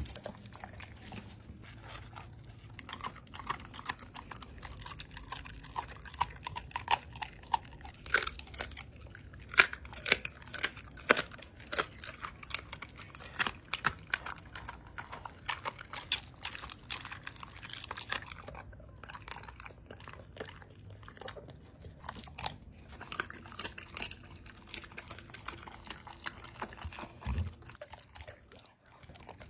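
Irregular crunching and chewing sounds: many sharp crunches in quick succession, loudest in the middle stretch.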